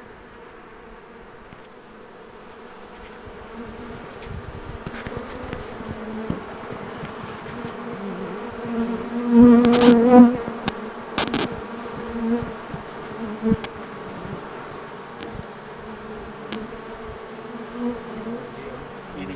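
A swarm of honey bees buzzing at the entrance of a hive box as the swarm settles into it: a steady, many-winged hum. About nine to ten seconds in, a bee passes right by the microphone, a loud close buzz that rises and falls in pitch, followed by a few sharp ticks.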